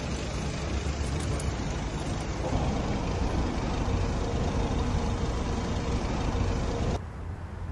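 Steady road-vehicle noise, deep and dense with no voices, which drops abruptly to a quieter background about seven seconds in.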